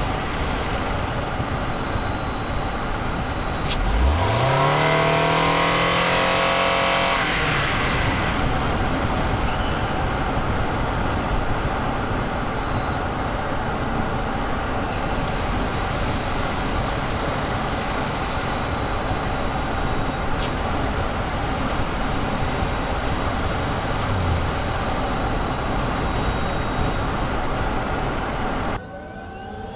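Cabin road and tyre noise from a 2023 Toyota Highlander Hybrid driving, recorded binaurally inside the car. About four seconds in, the 2.5-litre four-cylinder petrol engine kicks in and its pitch rises quickly, then holds steady for a few seconds before it drops away. The overall noise falls suddenly near the end.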